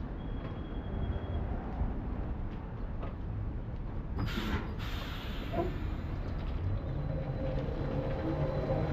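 City street traffic on a rain-wet road: a steady low rumble of passing vehicles, with a short burst of hiss about four seconds in. Toward the end a vehicle engine's low, even hum comes in.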